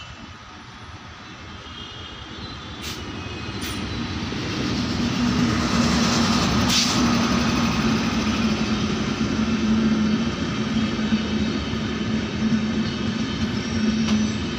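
Electric locomotive hauling the Tejas Express passenger train, approaching and passing close by. The rumble of wheels on rail grows over the first few seconds with a couple of sharp clicks, then holds loud and steady with a low hum as the locomotive and coaches go by.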